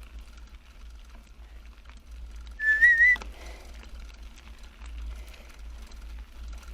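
A single short whistle about two and a half seconds in, held on one pitch with a slight waver for about half a second.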